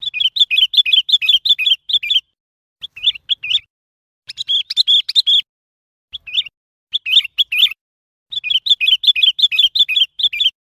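Sooty-headed bulbul calling: quick series of short chirping notes, about five a second, in bursts of one to two seconds with short pauses between them.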